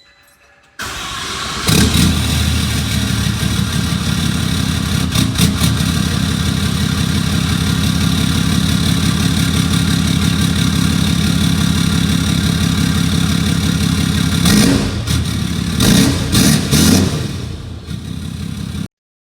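Cold start of a 2019 Dodge Ram 3500's Cummins 6.7 inline-six turbodiesel through a 5-inch straight-pipe exhaust: it cranks briefly, catches about two seconds in and settles into a loud, steady, evenly pulsing idle. Near the end come three or four louder surges as the throttle is blipped.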